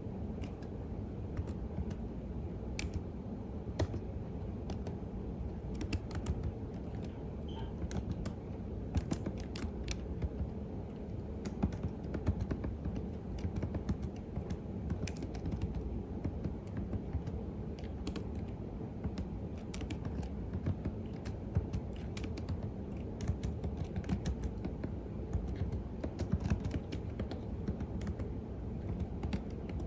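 Computer keyboard typing: a quick, irregular patter of key clicks over a steady low hum.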